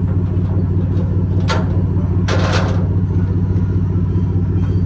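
A vehicle engine idling steadily with a low, even rumble. There are brief hissing noises about one and a half and two and a half seconds in.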